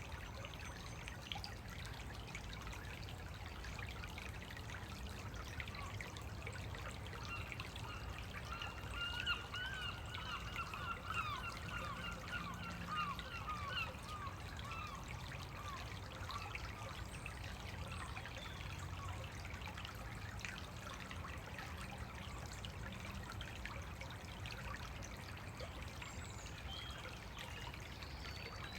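Small woodland stream trickling steadily over stones, with birds singing in the background; from about a quarter to halfway through, a bird gives a rapid run of repeated notes.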